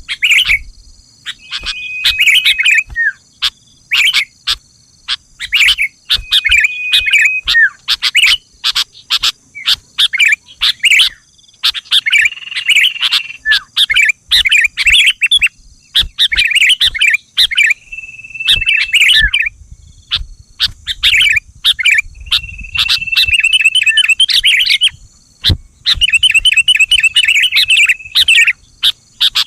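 Sooty-headed bulbul (kutilang) calling and singing: loud, bright chirping phrases repeated in bursts a second or two long with short gaps between, over a steady high-pitched thin whine in the background.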